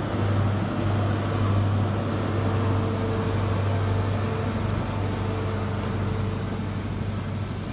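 Steady, low mechanical drone of a running vehicle, easing slightly near the end.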